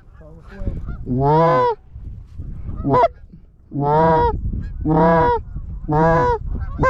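Loud goose honks, about six in a row spaced roughly a second apart, each a short call that rises and falls slightly in pitch, with one sharper, briefer note about three seconds in.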